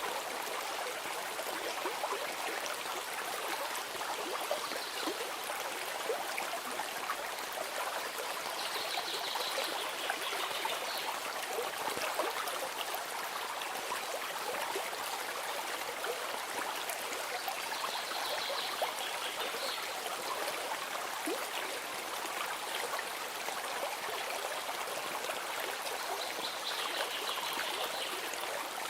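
Steady flowing stream water, an even trickling rush. A faint high-pitched sound recurs briefly about four times over it.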